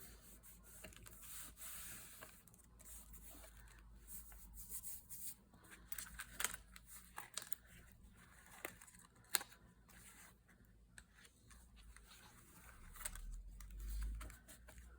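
Paper and card being handled on a craft table: faint rustling and crinkling with a few sharp clicks and taps.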